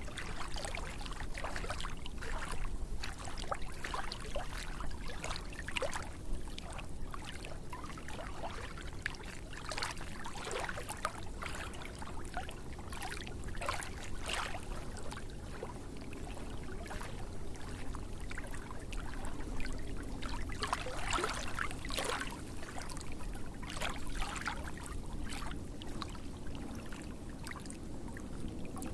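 Running water trickling and splashing steadily, made of many small irregular splashes over a low rumble.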